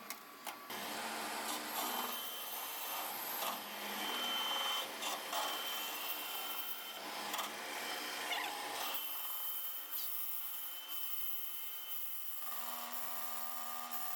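Lathe turning a differential case, the cutting tool scraping steadily across the spinning metal. The sound changes about nine seconds in.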